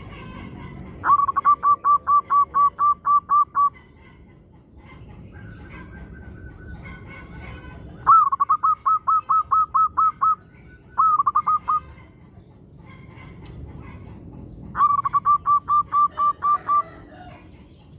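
Zebra dove (perkutut) singing: runs of rapid staccato cooing notes, about five a second. There are three runs of two to three seconds and one short run, with pauses between.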